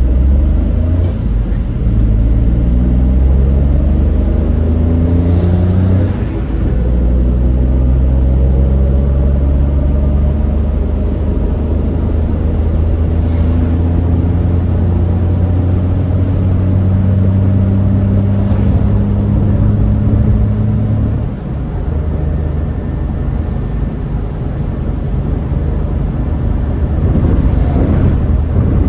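Car engine and road noise heard from inside the cabin: the engine note climbs in steps as the car accelerates over the first few seconds, then holds steady and eases off about two-thirds of the way through.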